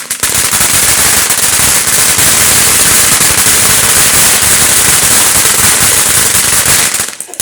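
Firecrackers going off in a dense, rapid run of small bangs for about seven seconds, stopping abruptly near the end.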